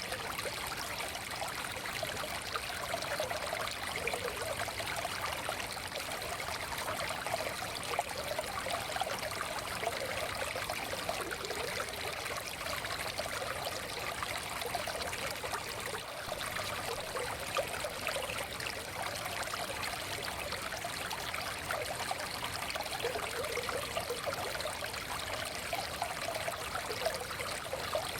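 Forest stream flowing steadily, water trickling and babbling over rocks with a constant rushing sound.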